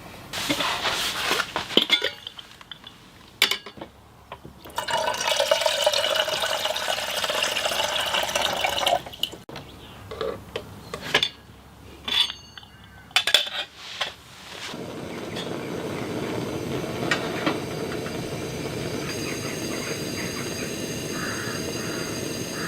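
Water being poured into a cooking vessel for about four seconds, among clinks and knocks of cookware, then a steady rush of water that carries on to the end.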